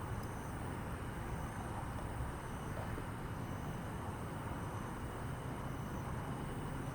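Small wood campfire burning, with a steady low rumble of passing road traffic behind it.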